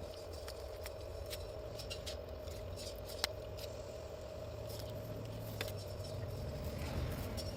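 Wood campfire crackling, with irregular sharp pops and ticks over a steady low hiss.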